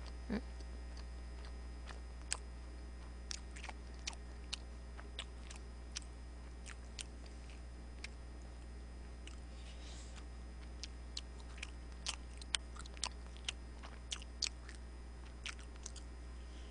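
Close-miked eating sounds: scattered short clicks of chewing and biting on French fries and a burger, thicker in the second half. Under them runs a steady low electrical hum that the streamer blames on a faulty microphone.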